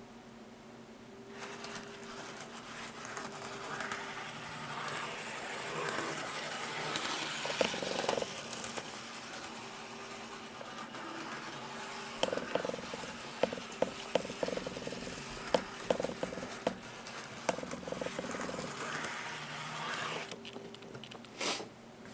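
Small electric motor and gearing of an N-scale model TGK2 diesel locomotive whirring as it runs along the track. It starts about a second in, is loudest partway through, then stops abruptly near the end, with a run of sharp clicks in the middle.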